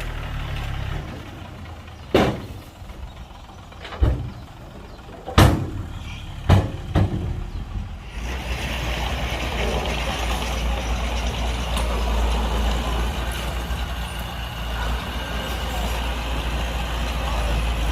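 Heavy diesel earthmoving machinery running at a fill site. There are several sharp bangs or hisses in the first half, then the engine runs louder and steady from about halfway through.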